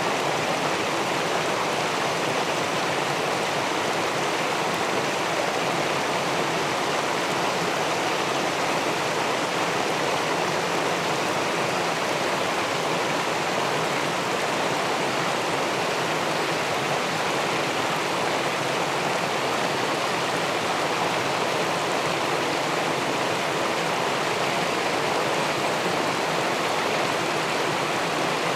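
River water pouring over a small weir into the pool below, a steady rushing that holds even throughout.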